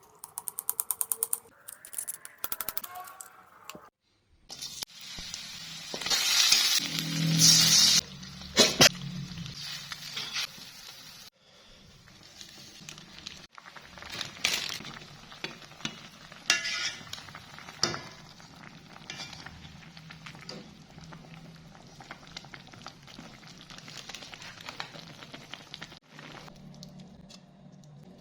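Cooking sounds in a series of short edited clips: sizzling in a pan with clinks of a utensil stirring against it, broken by several abrupt cuts.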